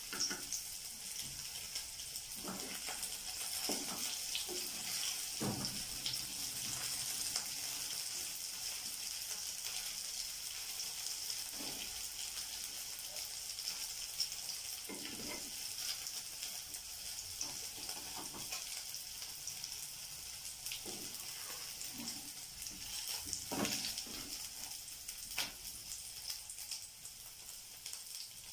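Batter-coated cauliflower florets sizzling in hot oil in a non-stick pan, shallow-frying until crisp. Now and then a wooden spatula knocks and scrapes against the pan as the pieces are turned and lifted out.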